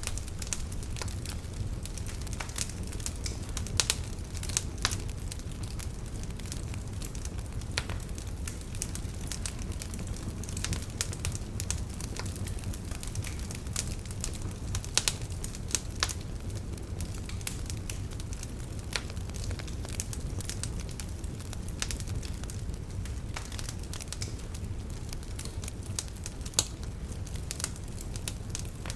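Wood fire burning in a fireplace: logs crackling and popping irregularly over a steady low rumble of the flames, with a few louder pops.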